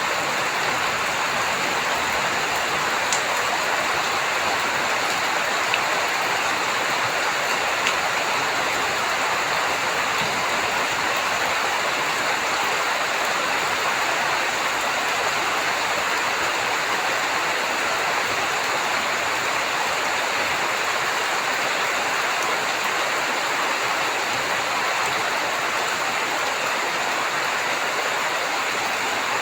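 Heavy rain falling steadily, a dense even hiss of drops, with a few sharper drip ticks within the first eight seconds.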